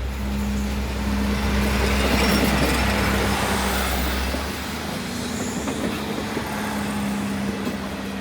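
Diesel train running, with a steady engine drone and a wash of wheel and rail noise that swells about two seconds in and eases after. A deep low hum cuts out about four seconds in.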